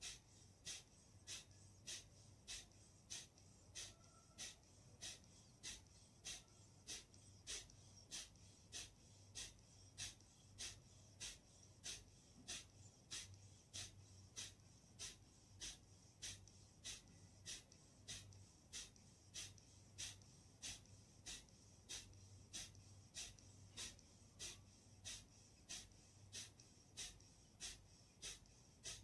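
Kapalbhati pranayama breathing: short, sharp, forceful exhalations through the nose at an even pace of about three every two seconds, each push driven by a snap of the abdominal muscles. The breaths are faint.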